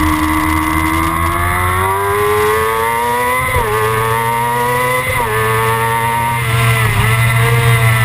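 Kawasaki ZX-6R's inline-four engine pulling hard, its pitch climbing and then dropping sharply at an upshift about three and a half seconds in and again about five seconds in. It then holds steady revs, with a brief dip near the end.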